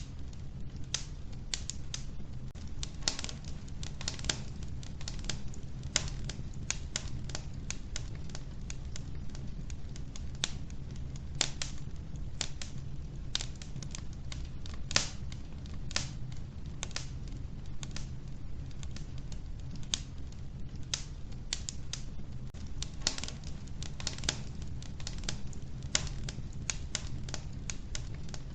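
Wood fire crackling in a wood-burning stove: irregular sharp pops and snaps over a steady low rumble of the flames.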